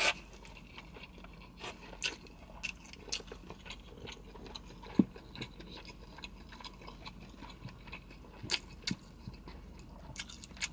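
A person chewing a mouthful of noodles and meat, with scattered wet clicks and smacks of the mouth.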